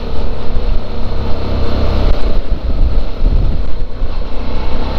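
Suzuki V-Strom 650 V-twin motorcycle engine running under way, with a steady low rumble and wind rushing over the helmet microphone.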